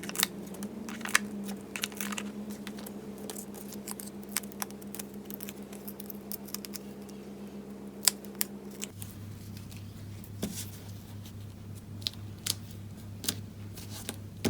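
Scattered small clicks and crinkles of foam adhesive dimensionals being peeled from their sheet and pressed onto cardstock. Under them is a steady low hum that drops lower about nine seconds in.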